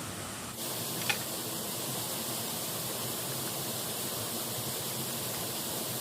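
Steady rush of river water, suddenly louder in its upper hiss about half a second in, with a single sharp click about a second in.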